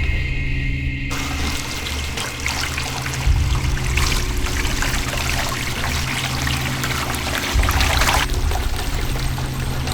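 Hot water running from a tap to fill a tub, a steady rushing pour that starts about a second in.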